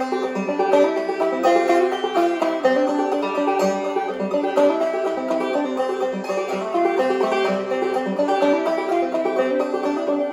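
Banjo played clawhammer style: a steady, even run of plucked notes and brushed strums in an old-time tune.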